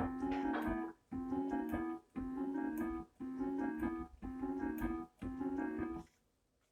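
Electronic keyboard played with a piano sound: the same short figure of notes over a low chord repeats about once a second, each phrase stopping short before the next. The playing ends about six seconds in.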